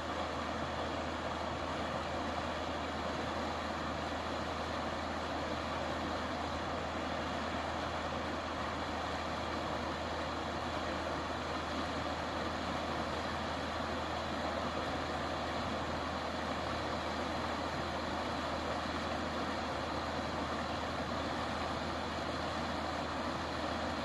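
River water flowing, a steady, unbroken rush of noise.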